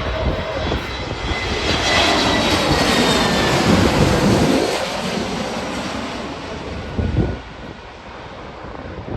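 Jet airliner's engines passing close by: a loud rush with a high whine that swells to a peak a few seconds in, then fades away. A short low thump comes about seven seconds in.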